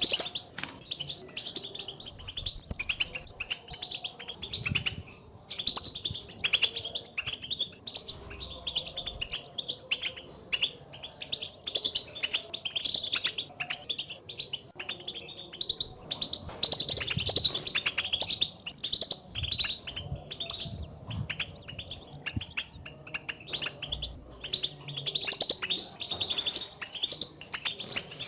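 European goldfinches giving their twittering contact calls, the calls finches use to keep in touch with one another. A dense, unbroken chatter of short high chirps, many overlapping.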